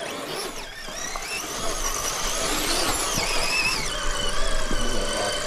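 Scale RC crawler truck's electric motor and gear drivetrain whining. The pitch rises and falls with the throttle for the first few seconds, then holds steady.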